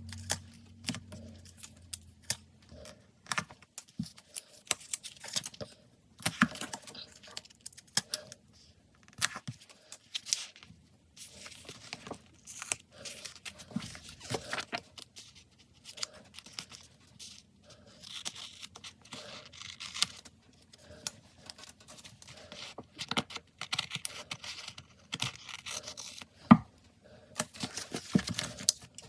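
Stickers and paper being peeled, torn and handled close to the microphone: irregular crinkles, clicks and short ripping sounds.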